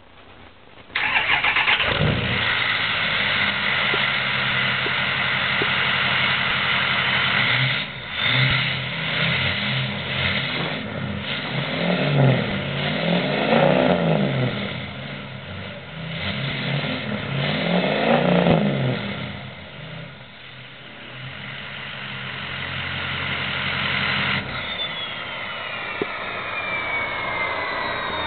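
Ford 6.0L Power Stroke V8 turbodiesel on a 5-inch straight-pipe exhaust starting up suddenly about a second in and idling, then revved up and down twice. Near the end the engine note drops away and the turbo whistle slides steadily down in pitch.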